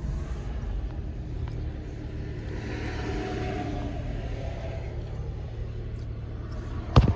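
Turbocharged Dodge Charger SRT V8 running with a steady low rumble, heard from inside the cabin, with a soft hiss rising and fading in the middle. A single sharp click comes near the end.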